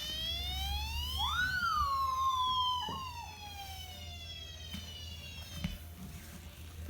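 Toy police car's electronic siren sounding one wail: rising for about two seconds, then sliding slowly down and cutting off suddenly near the end. A second, shorter wailing tone overlaps it for a moment about a second in.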